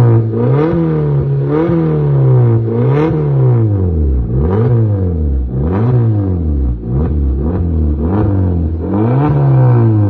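Suzuki Swift engine revved again and again through an HKS cat-back exhaust, the pitch climbing and dropping back in quick blips about once every second or so.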